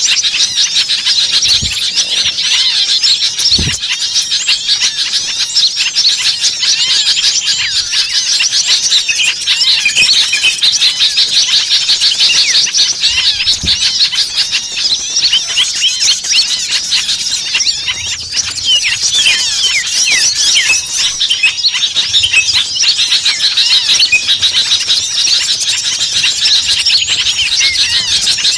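Dense, agitated chorus of many small songbirds chirping and squeaking over one another without pause: a bird-lure recording of small birds in an excited commotion, used to draw other small birds in.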